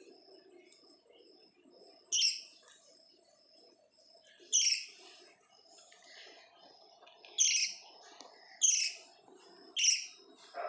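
Small pet parrot giving five loud, shrill single calls, each short and sharp-edged, spaced one to three seconds apart, over a faint low murmur.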